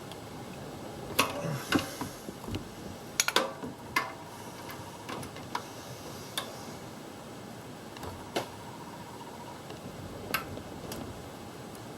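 Scattered sharp metallic clicks and clinks of hand tools on the bolts of an exhaust manifold heat shield, with the loudest cluster about three seconds in.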